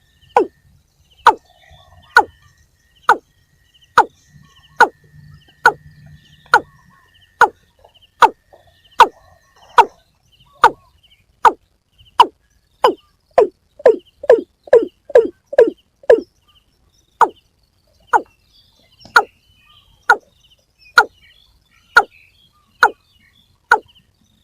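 A waterbird calling over and over: each call is a short note falling in pitch, repeated about once a second. The calls quicken into a faster run about two-thirds of the way through, then slow again.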